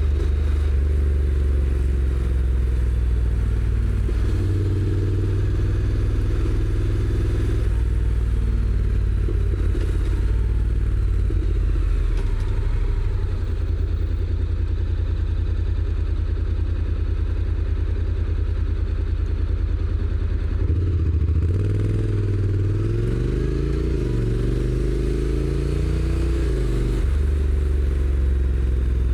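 Honda NC750X's parallel-twin engine on its stock exhaust, running under way. Late on, the engine pitch climbs and drops back twice as it accelerates and the DCT gearbox shifts up.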